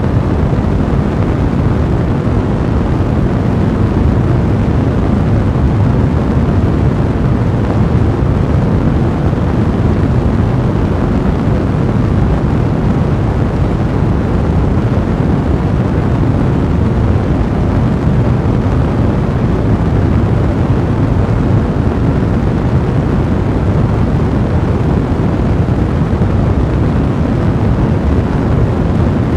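Fireplace fire burning steadily: a dense, even, low-pitched noise.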